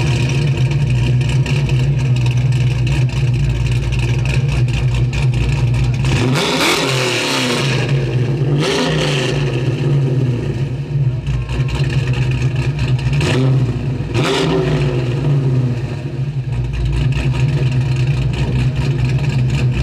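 A car engine running steadily. Its pitch dips and climbs back up about four times, near seven, nine, thirteen and fourteen seconds in, as it revs.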